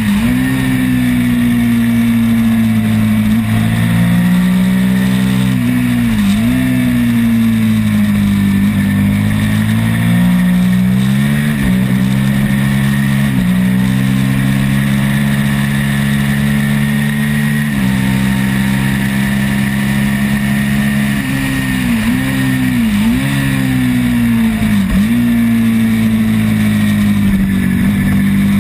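Twin-cylinder race motorcycle engine running hard at high revs, heard onboard. Its note dips briefly and climbs back several times.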